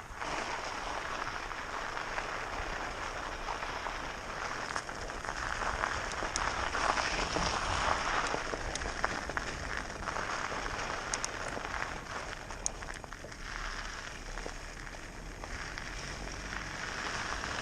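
Riding noise of an electric fatbike at about 11 km/h: a steady crackling hiss of the fat tyres rolling, with scattered clicks and a low rumble.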